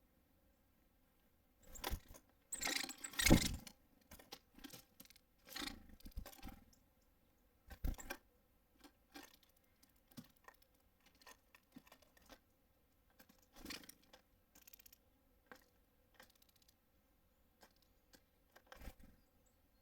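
Birds handling seed at a feeder: irregular taps, scrapes and rustles of beaks and claws on the feeder, loudest in a cluster about two to three and a half seconds in, with scattered single taps after.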